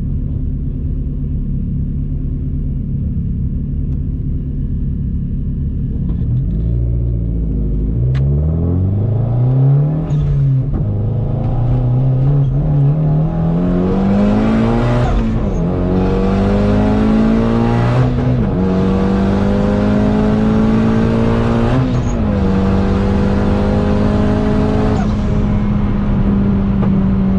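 Big-turbo Hyundai Genesis engine idling steadily, then launching into a full-throttle drag-strip pass a little over six seconds in. The revs climb hard through the gears with four upshifts a few seconds apart, then hold nearly steady in top gear near the end.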